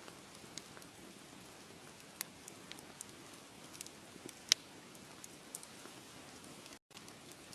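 Wood fire crackling: a soft steady hiss with scattered sharp pops and snaps, the loudest pop about four and a half seconds in. The sound cuts out completely for a split second near the end.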